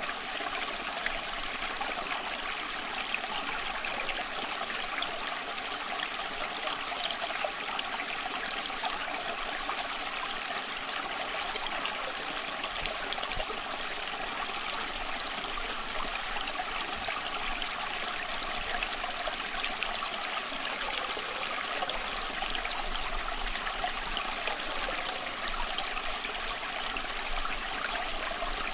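Small stream running steadily, water trickling and babbling over stones, a bright, even rush.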